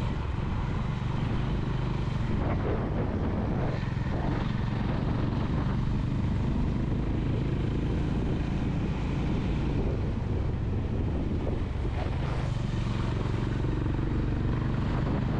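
Honda motorcycle engine running steadily while riding at road speed, a constant low drone with a rush of wind and road noise over it.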